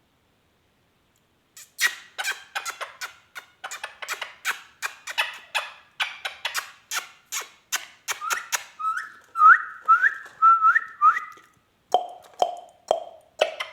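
Indian ringneck parakeet vocalising: beginning about two seconds in, a fast run of sharp chattering chirps, then a string of short rising whistles, then lower repeated calls about twice a second near the end.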